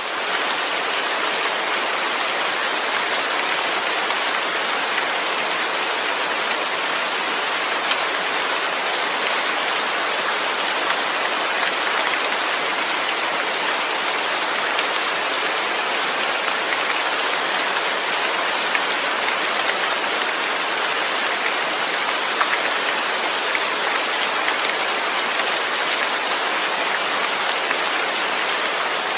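Steady rainfall: a dense, even hiss of rain with small scattered drop ticks, no change in intensity.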